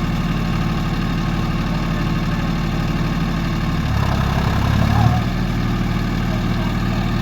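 Diesel engine of heavy farm or earthmoving machinery running steadily close by. About four seconds in it briefly changes pitch and grows louder, peaking a second later, then settles back to its steady running.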